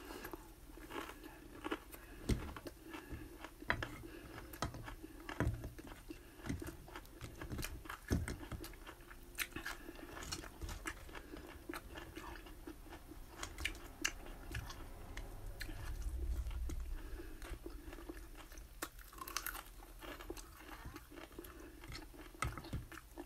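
A person chewing and biting a breakfast of rice, bacon and chicken wings eaten by hand, close to the microphone, with many short wet clicks and smacks. A low rumble comes in for a couple of seconds a little past the middle.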